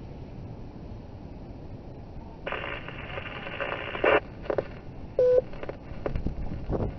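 Two-way radio receiving a transmission: a buzzing, tone-filled data burst lasting about a second and a half, then a short beep about five seconds in, with scattered clicks over a faint hiss.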